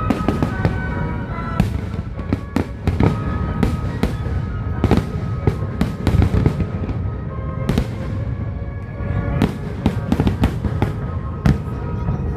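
Fireworks finale: a dense, continuous barrage of booms and crackling bursts, several going off every second over a steady low rumble.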